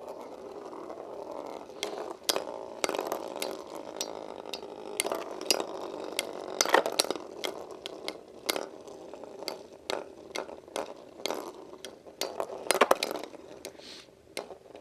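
Two Beyblade spinning tops with metal wheels whirring in a stadium and clashing, with many sharp, irregular metal clinks over a steady whir.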